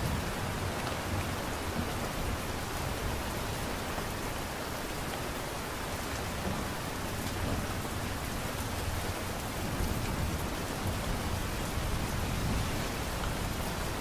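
Light rain falling steadily, an even hiss of drops with no breaks.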